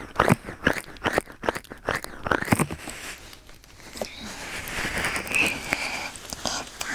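Close crackling and rustling right against a binaural dummy-head microphone: a quick run of crisp clicks and crunches, then from about four seconds in a steady hiss with scattered small crackles.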